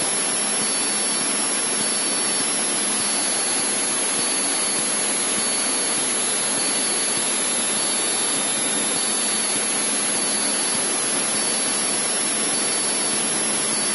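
Steady rushing cabin noise of a Cessna 152 in level cruise flight: its engine and slipstream make an even hiss with no change in pitch or level, and a faint steady high whine runs through it.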